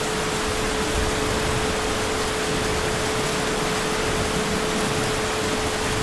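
Heavy rain falling steadily, an even hiss with no let-up, with a faint steady hum of one pitch running under it.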